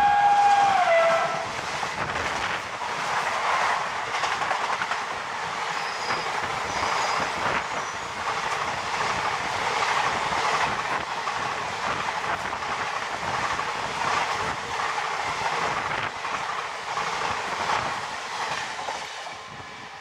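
A WAP-4 electric locomotive's horn sounds and drops in pitch as it stops about a second in. Then an express train's coaches rush past at about 110 km/h, steel wheels clattering fast over the rail joints, until the sound falls away near the end.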